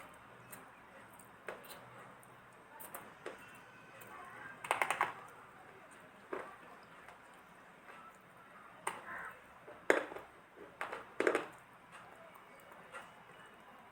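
Dry multani mitti (fuller's earth clay) being bitten and chewed: irregular crisp crunches, with the loudest clusters about five seconds in and again around ten to eleven seconds.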